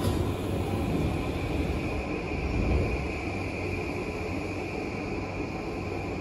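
Tokyu 5000 series electric commuter train running between stations, heard from inside the passenger car: a steady rumble of running noise with a faint high steady whine over it.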